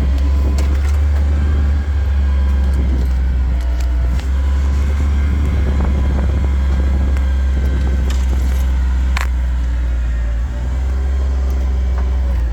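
Steady low rumble of a vehicle driving slowly along a rough dirt track, with scattered small rattles and knocks and one sharp knock about nine seconds in.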